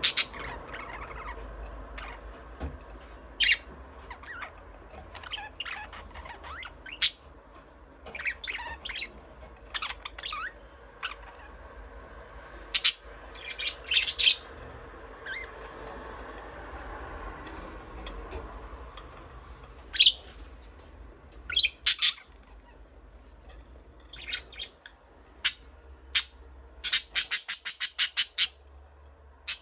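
Budgerigars chirping and squawking in short, scattered calls, with a quick run of rapid chirps near the end, over a low steady hum.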